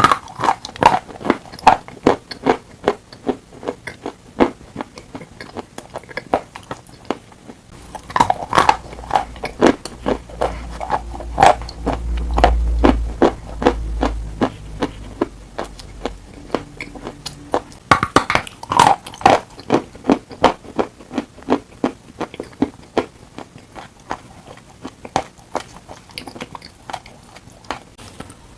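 Dry chalk being bitten and chewed close to the microphone: a steady run of sharp, dry crunches and cracks, with louder clusters of bites near the start, about eight seconds in and about eighteen seconds in. A low rumble sits under the chewing for a few seconds near the middle.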